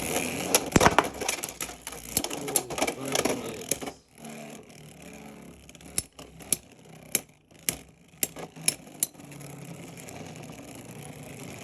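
Beyblade X spinning tops battling in a plastic stadium: a rapid clatter of hard plastic-and-metal hits for the first four seconds, then only a few separate sharp clicks as the tops spin on over a faint steady whir.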